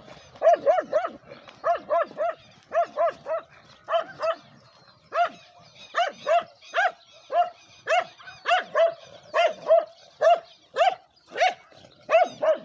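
A dog barking over and over, short barks about two to three a second, often in quick pairs.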